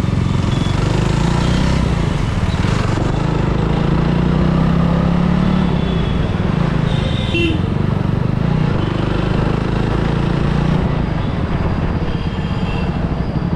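Motorcycle engine running steadily with street traffic around it, the engine note swelling a little now and then.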